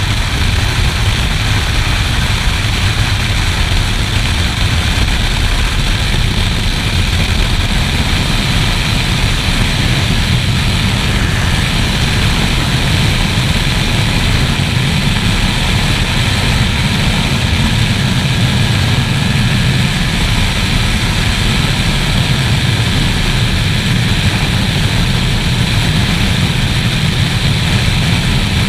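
Motorcycle riding steadily at speed: the engine's constant drone under a heavy rush of wind buffeting the helmet-mounted action camera's microphone.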